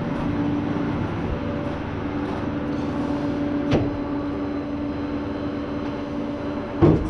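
Flatbed tow truck running steadily with a constant hum, with a sharp knock about halfway through and a louder clank near the end.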